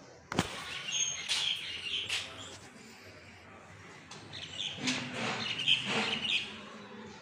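Small birds chirping in short, high bursts, in two clusters, with a sharp knock about half a second in.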